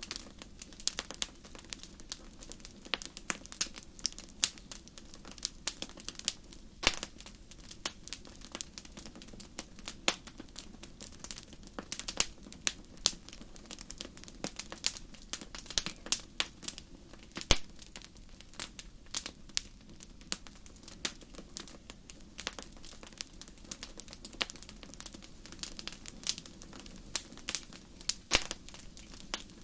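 Fire crackling in a fireplace: a steady stream of irregular sharp pops and snaps, some louder than others, over a low, constant rush of flame.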